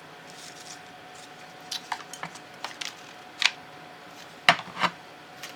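Small clicks and taps of craft pieces being handled and set down on a work surface, a scattered run of light ticks ending with two louder knocks near the end.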